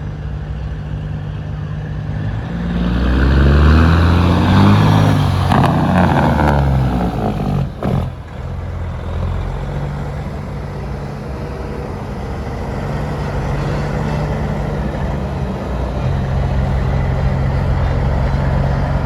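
Big-rig diesel truck engines running as trucks roll slowly past. One passes close a few seconds in, its engine note rising then falling, and steady engine drone carries on after.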